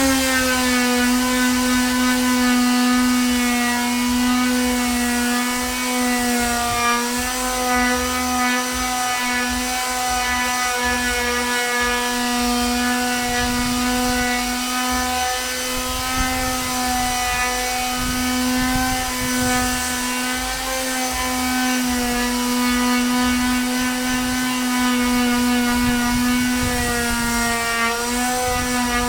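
Electric sander running steadily on wood, a high motor whine whose pitch dips slightly a few times.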